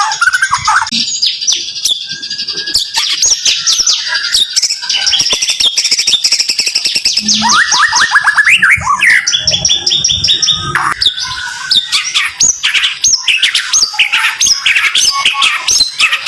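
White-rumped shama (murai batu) singing a rapid-fire 'tembakan' song: long volleys of quick, tightly repeated sweeping whistles and chips, changing from one phrase to the next.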